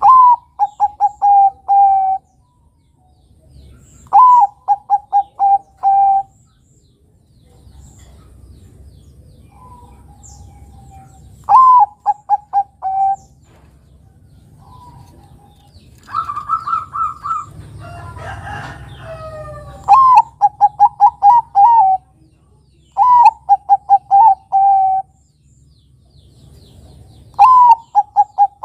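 Zebra dove of the Thai 'Bangkok' perkutut breed cooing. It repeats its song phrase about six times, every few seconds, each phrase a higher opening note followed by a quick run of shorter, lower coos. Around the middle comes a different, higher-pitched run of notes with some noise.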